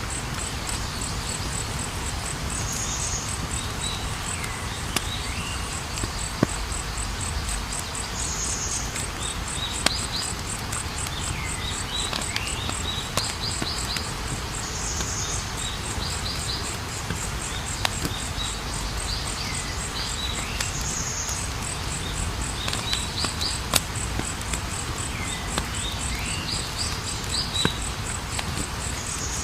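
Campfire burning with a low rumble and scattered sharp crackles and pops, while crickets trill steadily and a bird calls in short repeated chirps every few seconds.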